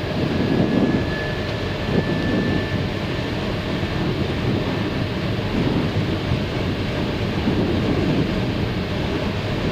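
Steady flight-deck noise of an Airbus A319 on final approach with the landing gear down: airflow rush and engine noise with low rumbling swells, and a faint thin high tone for the first few seconds.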